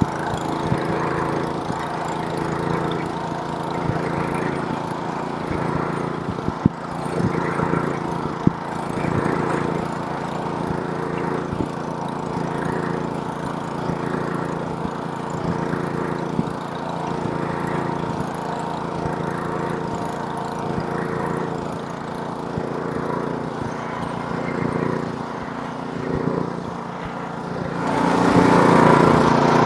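Gas snowblower's small engine running steadily, with a couple of sharp knocks about seven and eight and a half seconds in. The sound grows louder and brighter near the end.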